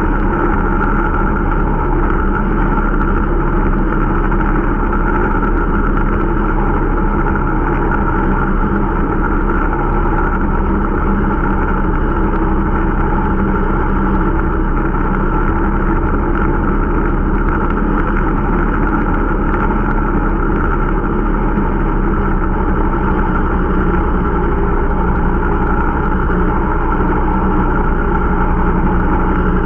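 Irbis Dingo T125 snowmobile's 125 cc engine running steadily at an even speed while being run in.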